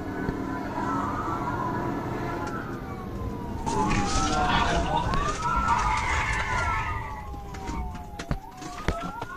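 Police car siren wailing, its pitch sweeping slowly up and down, over vehicle and road noise that gets louder in the middle; a few sharp clicks near the end.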